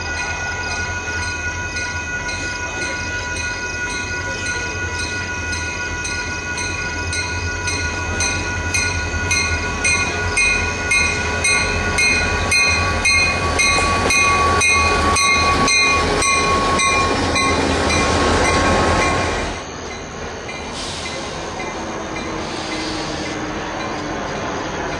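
Diesel-hauled freight train approaching and passing at track side, its engine rumble and wheel noise building to a peak and falling away sharply about 19 seconds in. Until then a steady repeating ring sounds about twice a second.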